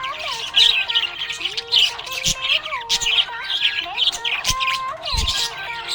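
Budgerigars chirping and warbling in a dense, continuous chatter, over background music.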